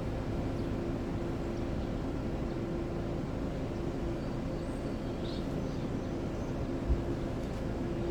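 A car's steady engine and road noise with a constant low hum.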